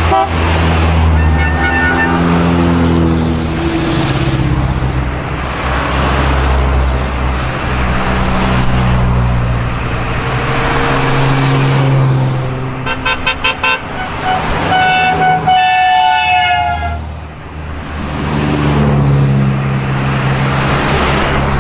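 Engines of vintage cars running and revving as they pass. Past the middle, a horn gives a rapid string of short toots, then a longer blast.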